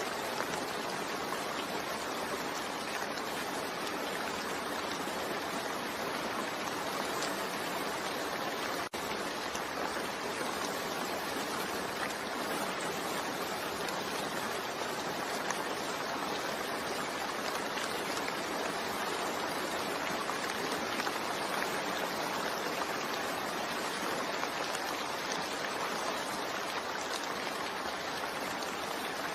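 Steady soft rain falling, an even hiss of water with no break except one momentary dip about nine seconds in.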